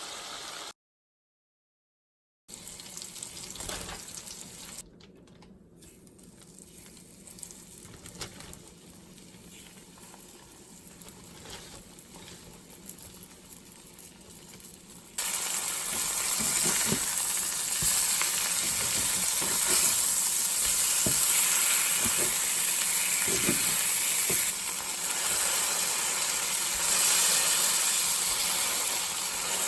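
Food sizzling as it fries in a pan over a wood fire. The sizzle is quieter at first and grows much louder about halfway through, with occasional pops.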